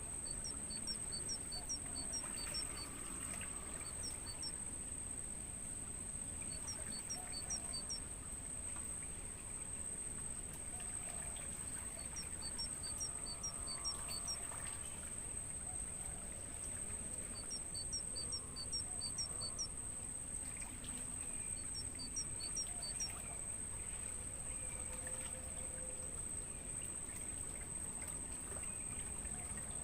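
Crickets keeping up a continuous, steady, high-pitched trill. Over it a bird calls in short runs of four to six quick, high chirps, repeated several times.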